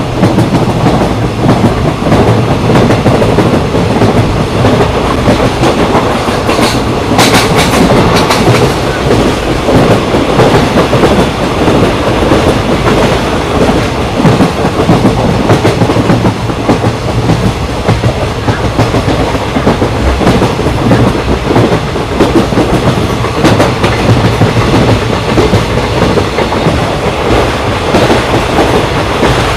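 Indian Railways express train running at speed, heard from on board: a steady rumble with the wheels clattering over rail joints, and a short burst of sharper, higher clatter about seven seconds in.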